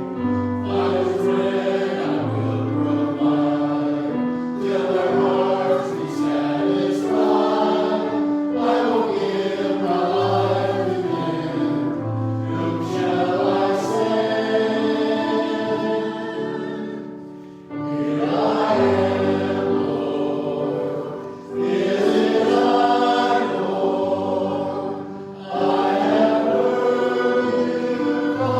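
Choir or congregation singing a hymn in several voices, in long held phrases with short breaks between them.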